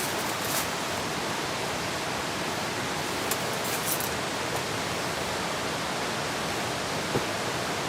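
Steady heavy rain, an even hiss, with a few brief sharper ticks and a small knock about seven seconds in.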